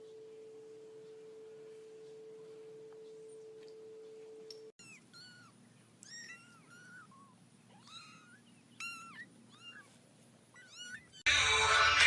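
A steady single-pitched hum for almost five seconds, then after a cut a kitten mewing over and over in short, high, bending mews. Loud music comes in near the end.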